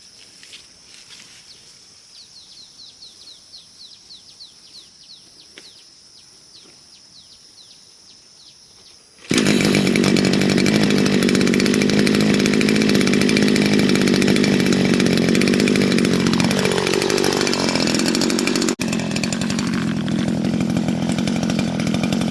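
Faint high chirping, then about nine seconds in a loud motor-driven machine starts abruptly and runs steadily. Partway through its pitch drops and stays lower.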